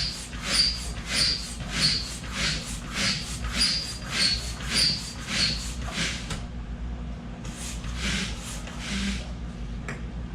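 A large two-chamber hand pump inflating an inflatable kayak's tube, with rhythmic strokes of rushing air, each carrying a thin whistle, at about a stroke and a half per second. Near the end the strokes slow to a few last pushes and stop as the tube reaches about 2.5 psi.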